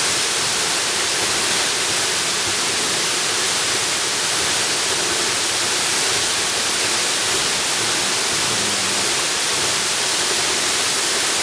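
Jungle waterfall: water pouring and splashing in a steady, unbroken rush, with most of its sound in the hiss rather than a low rumble.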